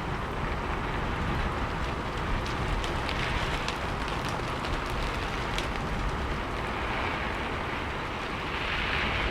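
Steady rain falling, a dense hiss with scattered sharp drop ticks, a little louder near the end.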